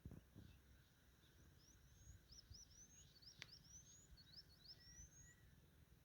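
Faint bird song: a songbird gives a run of quick, rising high notes for a few seconds, over a low rumble of wind or handling noise.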